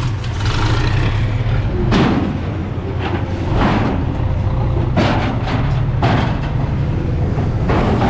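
Heavy truck engine running with a steady low rumble, with several short sharp noises over it.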